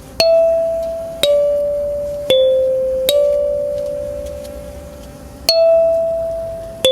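Mahogany kalimba, its metal tines plucked one note at a time in a slow melody. Six notes each ring out and fade, with a longer pause before the fifth.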